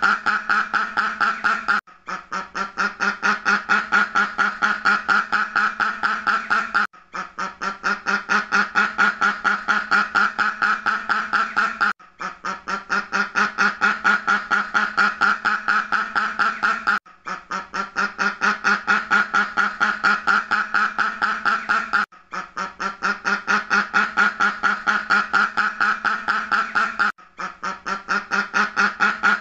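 Duck quacking in fast, continuous runs of many quacks a second, the same roughly five-second run repeating as a loop with a brief break between runs, each run starting softer and building up.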